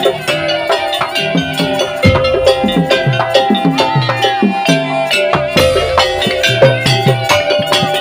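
Madurese musik daul ensemble playing fast, dense percussion under a held melody, with deep drum strokes that drop in pitch after each hit.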